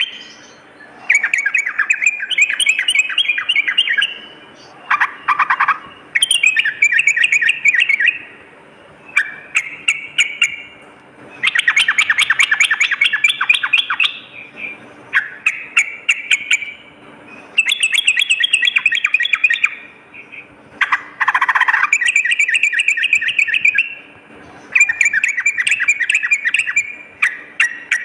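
Trucuk (yellow-vented bulbul) singing repeated phrases of rapid, bubbling chattering notes. Each phrase lasts a couple of seconds and is separated by short pauses.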